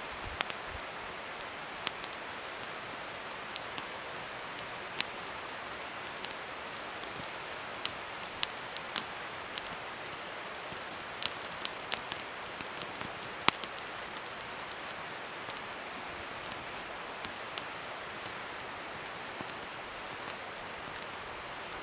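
Wood fire burning with a steady soft hiss and irregular sharp crackles and pops, a cluster of them about halfway through.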